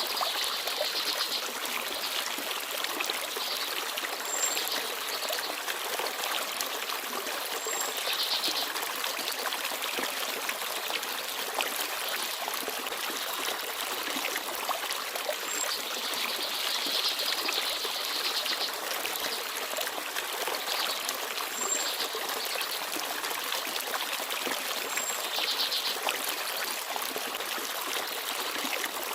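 Forest stream babbling and trickling steadily over its bed, with a few brief, faint high chirps from small birds scattered through.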